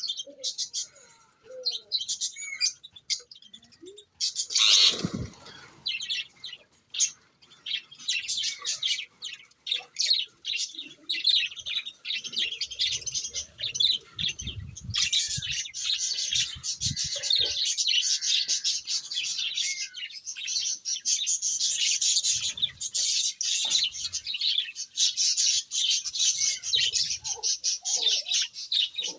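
Several pet parrots chirping and chattering, many short high calls overlapping and becoming an almost unbroken chorus in the second half. A brief loud whoosh comes about five seconds in.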